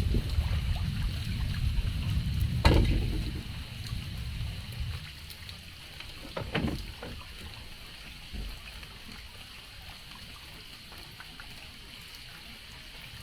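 Water splashing and trickling, with a few sharp knocks in the first seven seconds, then settling to a steady soft hiss.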